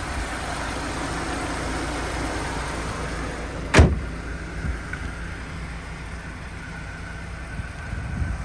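Car engine idling steadily after a cold start, with a single sharp thump a little under four seconds in.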